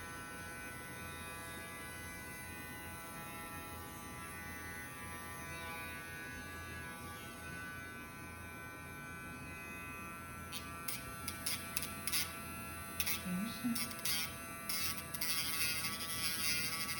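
Small electric rotary nail grinder running steadily while a pet bird's toenail is filed down. From about ten seconds in, short irregular rasps come and go over the motor's buzz.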